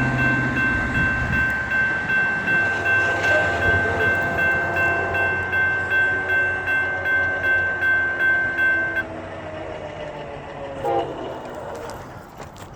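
Railroad grade-crossing warning bell ringing in a fast, even pulse on one high tone while the gates come down, cutting off about nine seconds in. Under it, the horn of the approaching Amtrak Auto Train sounds, its pitch sliding slightly.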